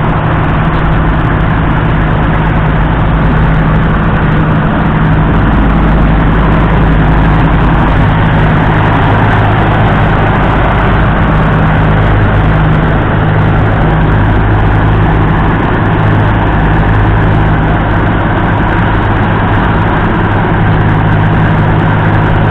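Rolls-Royce Eagle 12.17-litre six-cylinder diesel of a 1977 Scammell Crusader truck idling loudly and steadily.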